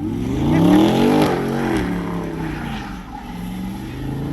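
Car engine revving hard: the pitch climbs for about a second, drops back, holds steady, then climbs again near the end.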